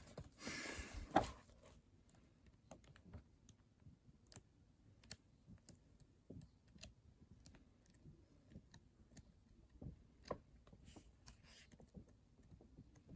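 A paper book page turned with a short rustle, then faint scattered clicks and taps from handling the book while searching through it.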